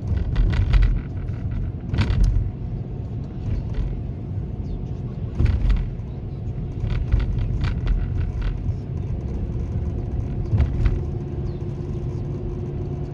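Car driving along a road: a steady low rumble, with scattered short knocks and clicks.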